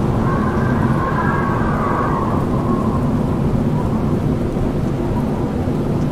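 Strong wind howling: a steady deep rush with a wavering, whistling tone over it that fades away a couple of seconds in.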